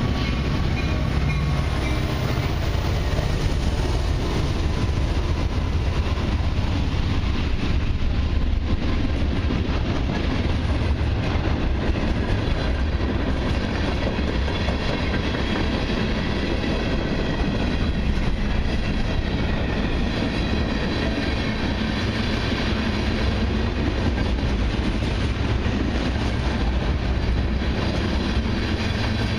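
Freight cars of a long mixed freight and autorack train rolling steadily past: a continuous heavy rumble with fast wheel clatter on the rails.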